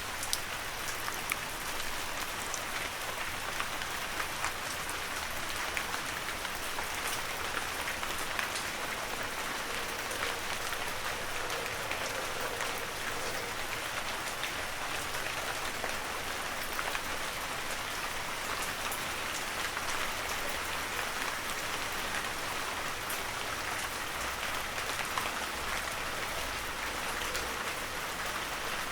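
Heavy rain falling steadily in a forest, a dense even hiss with many separate drops pattering.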